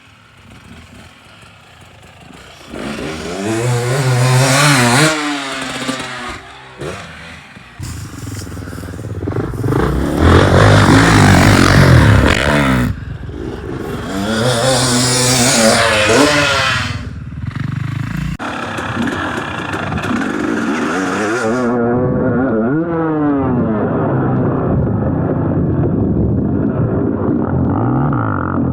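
Dirt bike engines revving up and easing off in several passes. Each pass rises to a loud peak and falls away, and an engine runs more steadily near the end.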